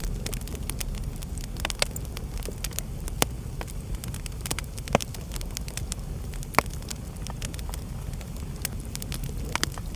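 Wood fire crackling steadily over a low rumble, with many small snaps and a handful of louder pops.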